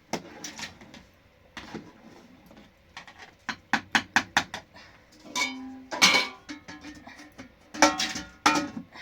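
Hard objects knocking and clinking in an irregular series, several in quick succession mid-way, with a few louder strikes near the end; some strikes ring briefly.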